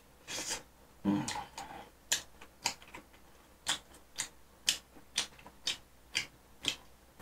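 Close-up mouth sounds of a man chewing a mouthful of sausage: a run of short clicks, about two a second.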